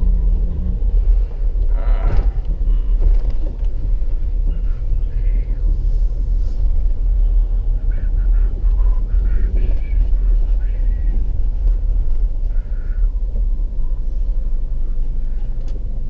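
Steady low rumble of a car driving, heard from inside the cabin, with a brief scrape or rustle about two seconds in.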